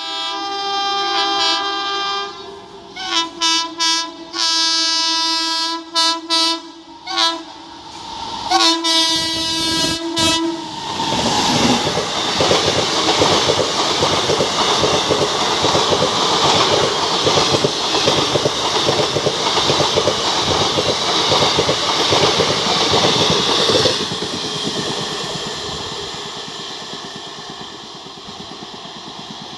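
An express train's locomotive horn sounds a long blast, then a run of shorter blasts, then another long blast as it approaches. The train then rushes through the station at speed with loud wheel clatter for about a dozen seconds before the sound fades away.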